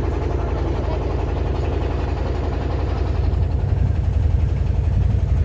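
Steady low engine rumble of a running vehicle, with a fast even pulsing.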